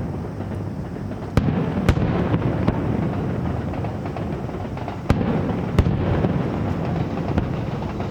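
Aerial fireworks shells bursting: sharp bangs in two pairs, one about a second and a half in and one about five seconds in, over a continuous low rumble of other bursts.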